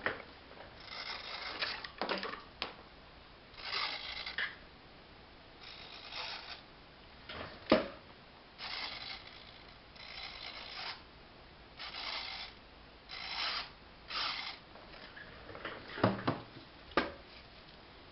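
Small servo-driven parachute release mechanism of a model airplane whirring in about a dozen short bursts, with a few sharp clicks, the loudest about a third of the way in and two near the end.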